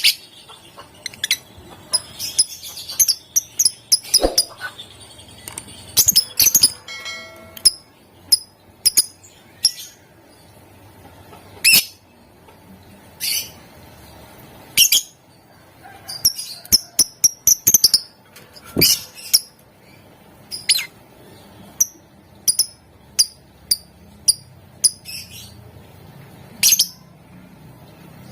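Lovebird calling in short, shrill, high-pitched chirps at irregular intervals, with a brief buzzy call about seven seconds in.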